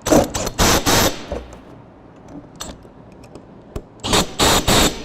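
Cordless drill with a 7/16 socket, its clutch set to about 25 to 30 pounds of torque, running flange bolts tight on sheet-metal ductwork in two bursts of about a second each: one at the start and one about four seconds in. Light metal clicks come in between as the socket moves to the next bolt.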